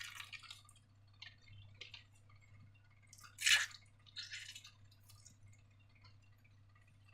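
Slime being handled: scattered short sticky, wet clicks and squelches, with one louder squelch about three and a half seconds in and a few more just after.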